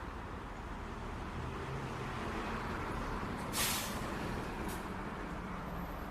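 Steady city traffic rumble, with a short, sharp hiss of a heavy vehicle's air brakes about three and a half seconds in and a fainter second hiss about a second later.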